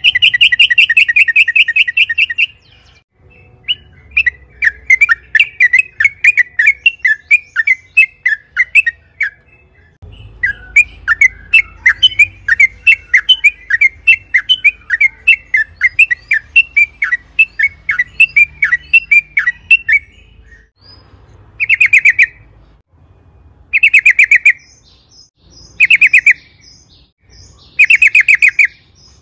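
Yellow-vented bulbul (trucukan) singing loudly. A fast bubbly trill opens it, then long runs of quick chattering notes follow, and near the end short bubbly phrases come about every two seconds.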